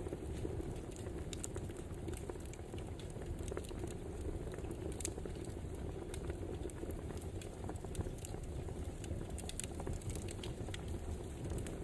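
Crackling wood fire: frequent irregular sharp pops and snaps over a steady low rushing noise.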